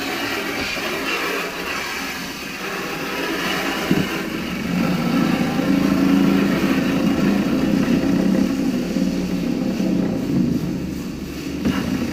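Storch Tornado roller cleaner running on hose water: at first mostly the hiss of spraying water. After a knock about four seconds in, the paint roller spins with a steady low whir under the spray, and there is another knock near the end.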